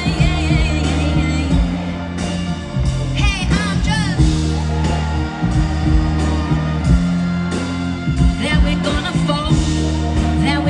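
Live pop band playing with a steady bass and beat, and a singing voice sliding through wavering, drawn-out notes over it.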